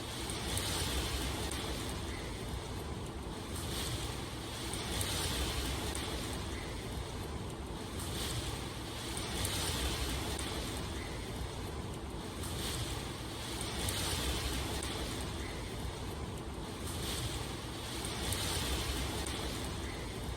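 Steady rushing water noise, like heavy rain or surf, that swells and eases every two to three seconds.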